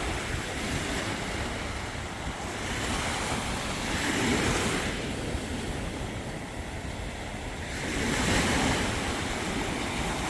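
Waves breaking and washing on a sandy beach, swelling about four seconds in and again near the end, with wind buffeting the microphone.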